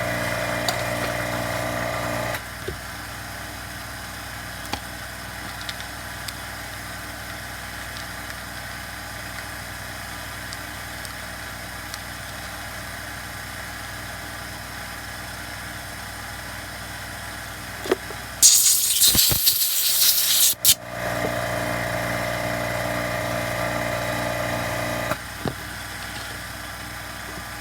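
A steady machine hum throughout, louder for the first two seconds and again for a few seconds near the end. About two-thirds of the way through comes a hard hiss of rushing air lasting about two seconds, with a few small clicks and knocks.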